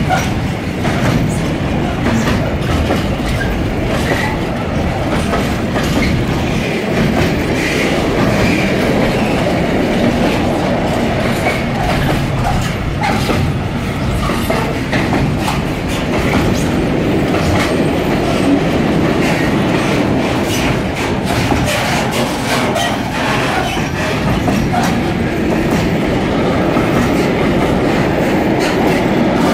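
Container flat wagons of a freight train rolling past close by: a steady rumble of steel wheels on the rails with rapid clattering clicks and occasional faint squeals.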